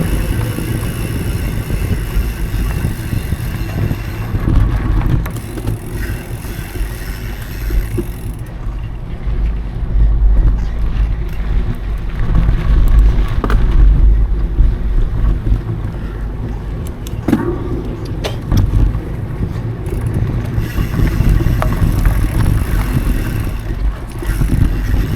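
Mountain bike riding over dry dirt singletrack: a steady rumble of tyres and wind buffeting the action camera's microphone, with a couple of sharp knocks from the bike.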